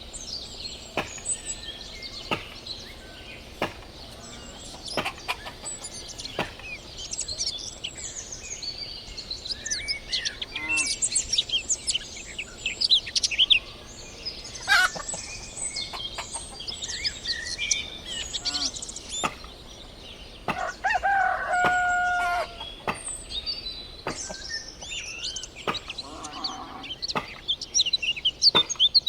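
Small songbirds chirping and twittering throughout, with hens clucking and a rooster crowing once, a held call about twenty seconds in.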